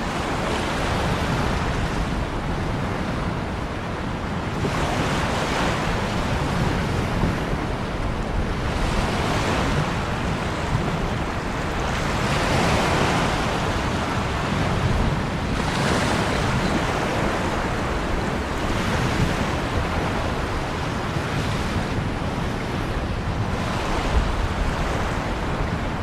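Ocean waves breaking and washing in, an unbroken rush of surf that swells every few seconds.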